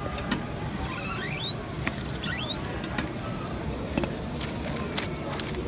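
Restaurant dining-room background din with scattered sharp clicks of dishes and cutlery and several short, high squeals that rise in pitch.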